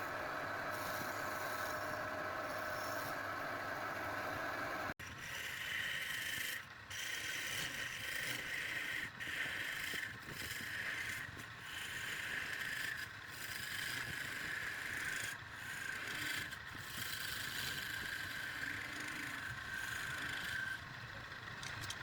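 A steady machine-like sound for about five seconds, which breaks off suddenly. It gives way to many repeated scraping strokes with short pauses between them, like wood being rubbed, sanded or filed by hand.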